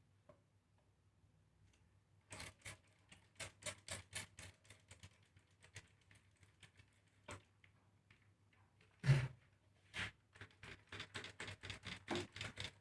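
Dry bird-seed mix of millet, jawut and black glutinous rice roasting in a pan: irregular sharp clicks and taps in clusters, densest near the end, over a faint steady hum.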